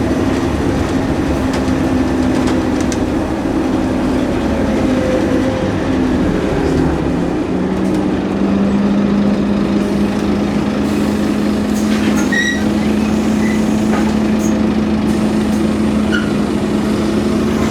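Scania N230UD OmniCity double-decker bus running, its engine and ZF automatic gearbox making a steady whine. The whine drops in pitch about six to eight seconds in, then holds steady.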